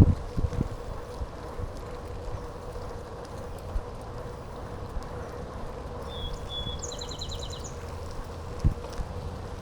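Wind rumbling on the microphone of a moving bicycle, with a few knocks from the ride. About six seconds in a bird calls: two short high notes, then a quick trill.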